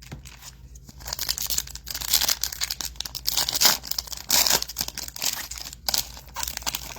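Crinkly foil trading-card pack wrapper being torn open and crumpled, an irregular crackling rustle starting about a second in.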